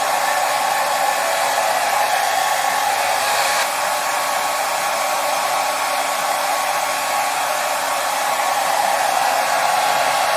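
Hair dryer running steadily, an even blowing noise with its strongest part in the mid range, with a slight change in tone about three and a half seconds in.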